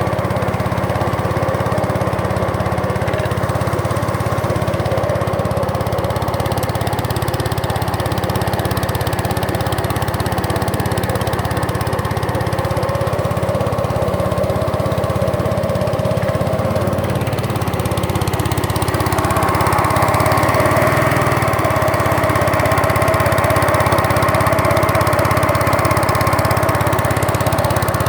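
Small boat's engine running steadily under way, picking up a little about two-thirds of the way through.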